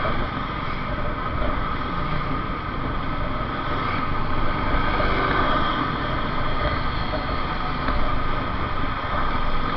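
Motorcycle riding sound: the engine running steadily under a constant rush of wind and road noise.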